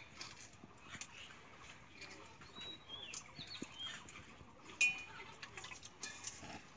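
Small birds chirping in short, high calls, over scattered light clicks of boiled eggshell being cracked and peeled by hand. A sharp tap comes a little under five seconds in.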